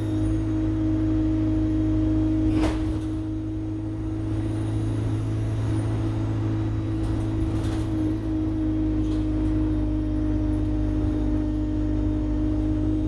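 Alexander Dennis Enviro200 bus's diesel engine running with a steady drone and a high turbocharger whine that rises and falls about four to six seconds in. A sharp knock about two and a half seconds in, and a few fainter clicks later.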